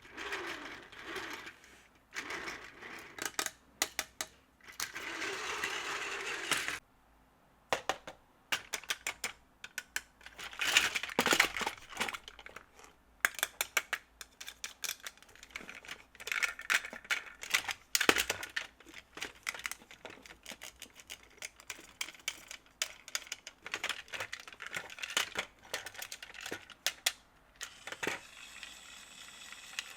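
Plastic Plarail toy pieces and packaging being handled: many quick clicks and taps with short bursts of crinkling rustle. Near the end a faint steady whirring sets in.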